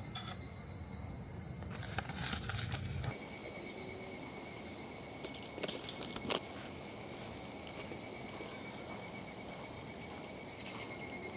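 Steady, slightly pulsing insect chorus of summer cicadas or crickets, with a few light clicks or knocks about six seconds in.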